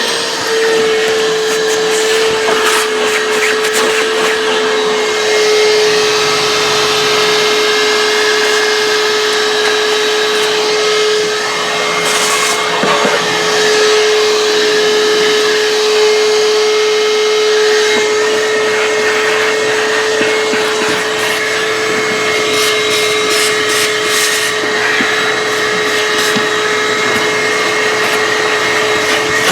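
Vacuum cleaner running steadily with one constant whine over a rushing hiss, with occasional clicks and rattles.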